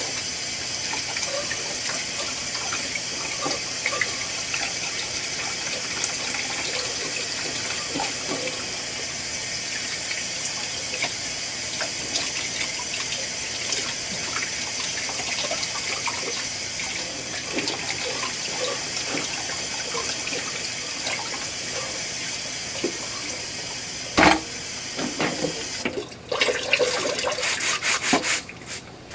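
Water running steadily from a tap, with small clinks throughout. A loud knock comes about 24 seconds in, the water shuts off about two seconds later, and irregular clattering and rubbing follow.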